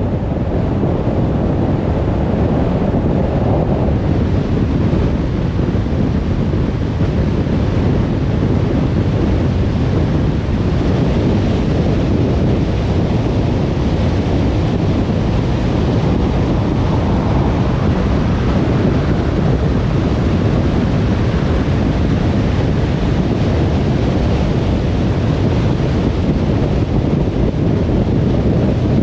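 Steady road noise from a moving car: tyres on the road and wind rushing past, without a break.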